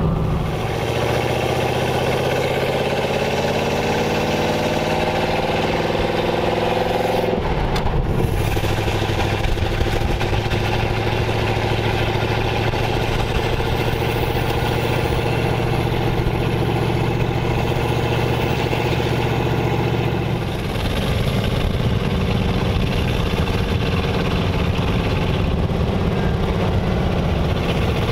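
1929 Ford Model A roadster pickup hot rod's engine under way, rising in pitch as it accelerates for about seven seconds, then running at a steady pitch, with another change in its note about twenty seconds in. Wind and road noise in the open cab.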